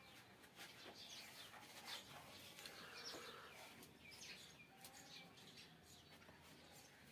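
Faint chirping of small birds: many short calls, several falling quickly in pitch, scattered throughout.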